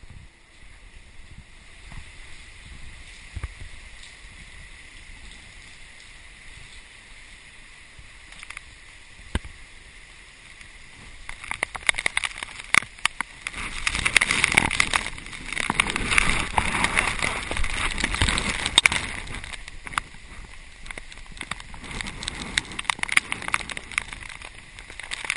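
Typhoon wind buffeting a GoPro camera: a steady rush that swells into loud gusts about twelve seconds in, full of sharp crackles, then eases somewhat near the end.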